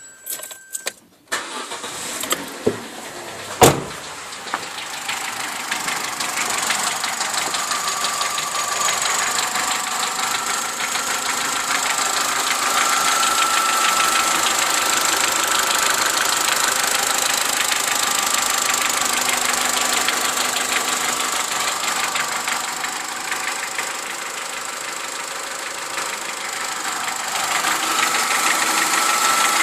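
Opel Corsa C 1.2 Twinport (Z12XEP) four-cylinder petrol engine starting cold within the first few seconds, then idling with a rapid clattering. The rattle is the cold-start noise that the owner says dies away after a short time.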